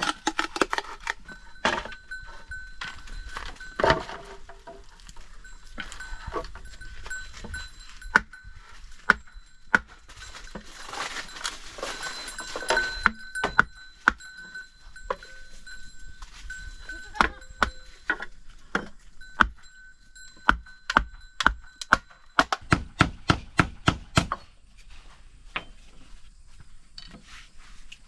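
Sharp knocks and taps, as of work on wood or bamboo, scattered throughout, with a fast run of knocks about three-quarters of the way through. Behind them is an on-and-off ringing tone, bell-like.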